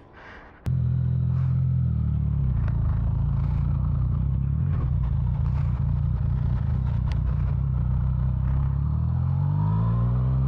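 Motorcycle engine, coming in abruptly under a second in and running steadily, then rising in pitch near the end as it revs up.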